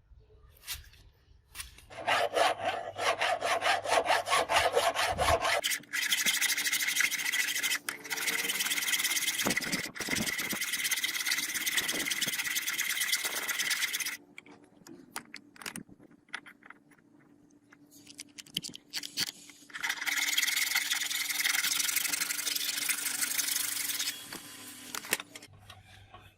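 Abrasive scraping, like sanding or filing, in three long spells with pauses between them. The first spell is made of quick, distinct back-and-forth strokes, and the later ones are steadier and more continuous.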